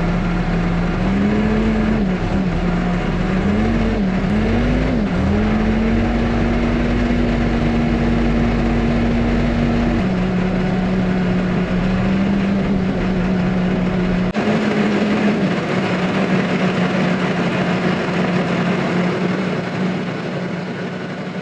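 Diesel engine of a Yanmar VIO50 mini excavator running under hydraulic load. Its pitch rises and dips as the machine works, holds higher for several seconds, then drops back abruptly.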